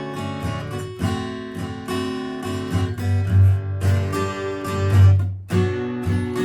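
Yamaha FG800 spruce-top acoustic guitar being played, chords and notes struck one after another and left ringing, with a full low end.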